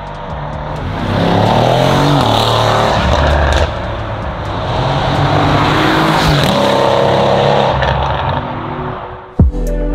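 A tuned twin-turbo V8 sports sedan with an aftermarket exhaust accelerating. Its engine note rises through the revs, drops at a gear change about three and a half seconds in, then rises again and fades. Music with a heavy beat comes in near the end.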